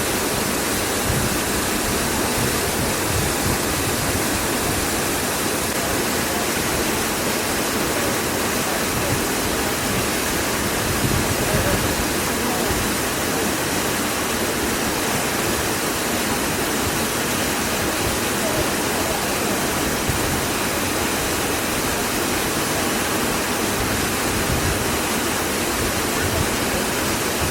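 Waterfall rushing: a steady, unbroken noise of falling water pouring into a pool.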